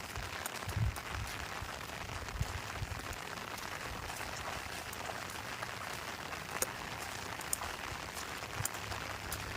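Steady rain falling: an even hiss with scattered sharp drop ticks and a few brief low thumps.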